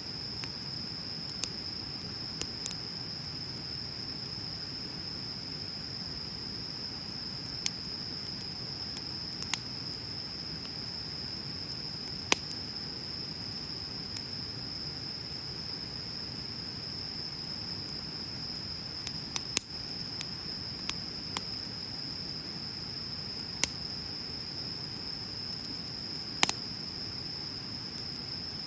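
Wood bonfire burning with a soft low rush and about a dozen sharp, scattered crackles and pops. Under it runs a steady high chirring of crickets.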